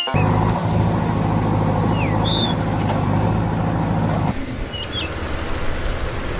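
An engine running steadily with a low hum, with birds chirping a few times over it. The engine sound changes abruptly, becoming thinner, about four seconds in.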